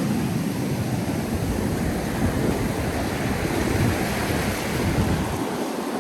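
Ocean surf washing on a beach, with wind buffeting the microphone in a fluttering low rumble.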